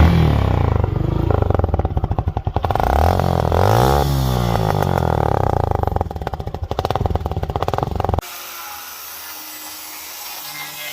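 Suzuki Gixxer SF single-cylinder motorcycle engine running loud through a silencer whose inner pipes have been cut out, a cheap mod that makes the exhaust louder. Its pitch rises and falls once around the middle. It stops abruptly about eight seconds in, giving way to a much quieter steady background.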